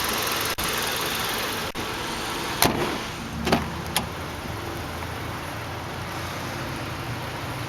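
Hyundai Elantra Touring's 2.0-litre inline-four engine idling steadily, with a few short knocks between about two and a half and four seconds in.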